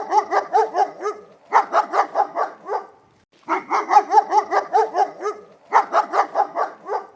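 Dog barking in four quick bursts of about half a dozen short, high yaps each.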